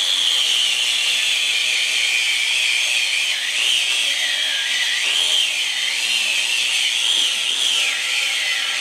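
A handheld power tool running continuously while it scrubs the engine block clean, its motor whine dipping and rising as it is pressed against the metal.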